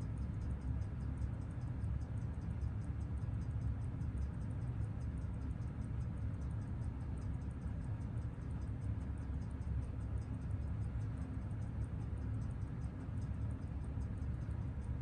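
Rapid, even ticking of a Seiko 6139 automatic chronograph movement, a 21,600-beat-per-hour calibre, picked up on a timegrapher, over a steady low hum. The beat runs very regularly, the sign of a freshly serviced movement running with crazy steady amplitude.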